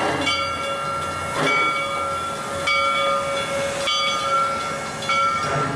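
Crown steam locomotive passing with its bell ringing, struck about once every second and a bit, over steam hiss and the low rumble of the train.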